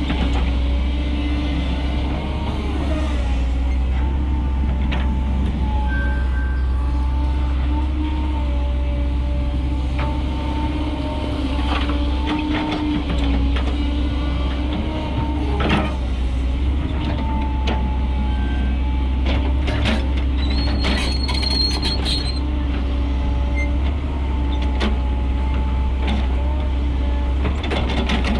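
Diesel engine of a Mercedes-Benz Atego dump truck running steadily, with scattered knocks and rattles and a brief high-pitched tone about two-thirds of the way in.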